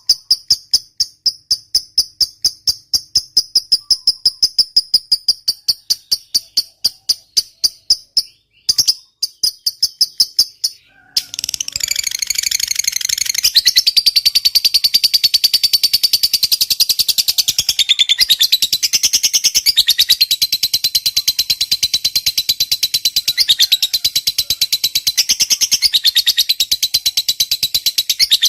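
Lovebird chattering in its long 'ngekek' call: first a run of rapid, evenly spaced high chirps about five a second, then, after a short break about eleven seconds in, one long unbroken high-pitched rattling trill.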